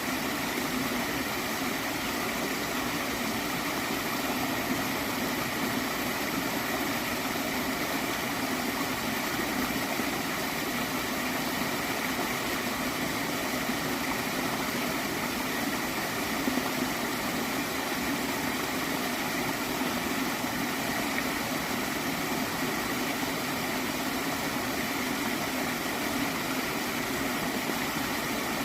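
Water flowing in a gentle stream, a steady, unbroken rush with no distinct events.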